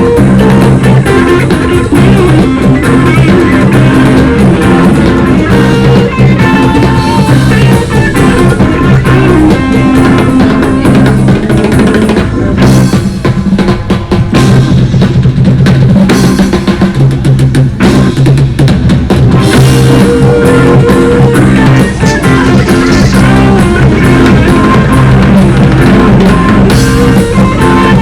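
Instrumental rock band music with a steady drum-kit beat, bass and guitar, played loud without singing.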